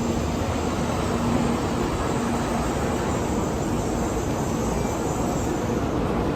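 Steady rumble and hiss of a Shinkansen train running, with a faint low hum throughout.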